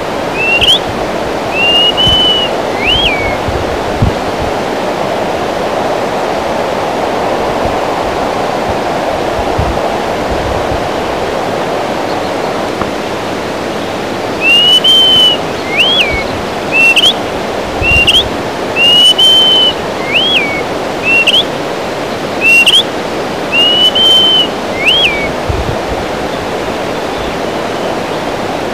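Greater pewee singing: clear whistled phrases of slurred and arched notes, a short phrase about a second in and a longer run of repeated phrases from about halfway through to near the end. A steady rushing noise runs underneath.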